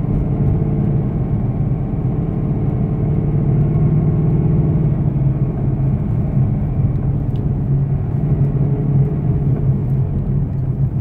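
Car engine and drivetrain pulling in second gear, heard from inside the cabin as a steady low drone. It carries the rpm-linked rubbing click that the owner likens to a fan rubbing or hitting something, a noise most pronounced when the engine is cold.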